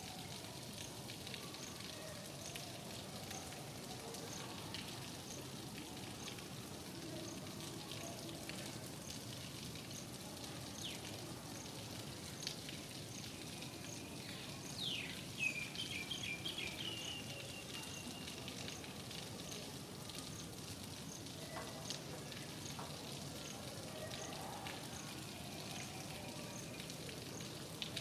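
Steady rain falling with an even hiss. About halfway through a bird calls briefly, with a quick downward sweep and then a run of short repeated notes. A faint high ticking repeats about twice a second.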